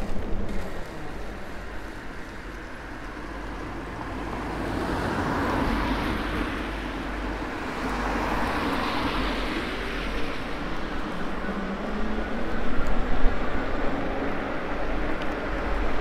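Riding noise of an ENGWE E26 fat-tyre e-bike: wind buffeting the microphone and the wide tyres rolling on the road, under a faint steady hum. The noise swells twice in the middle.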